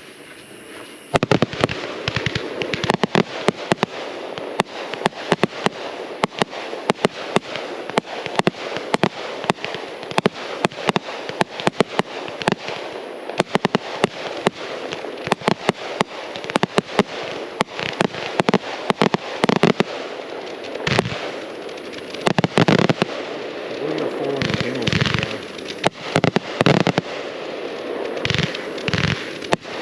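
Consumer fireworks going off in a dense, fast run of sharp bangs and crackling, starting about a second in and continuing without a break.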